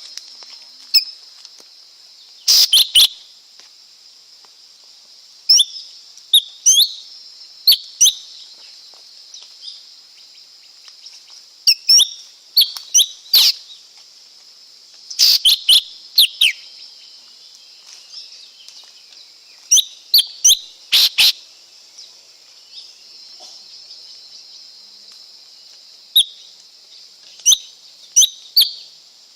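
Lesser green leafbird calling: short, sharp, sweeping whistled chirps in quick clusters of two to four, repeated every few seconds over a steady high-pitched hiss.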